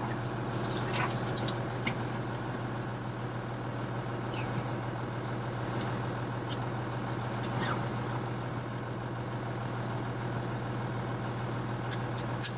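Semi-truck's diesel engine running, heard from inside the cab as a steady low hum, with a few short high clicks and creaks scattered through it.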